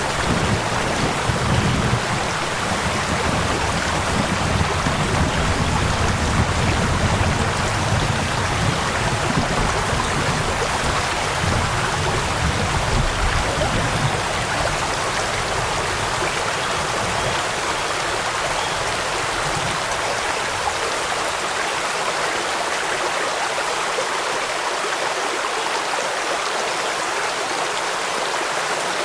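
Steady rush of flowing water mixed with rainfall. A low rumble underneath dies away about two-thirds of the way through, leaving the higher hiss of water.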